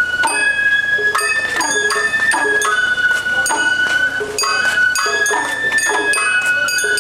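Sawara-bayashi festival music: a high bamboo flute playing a melody of long held notes over regular drum strikes and the clink of a small hand gong.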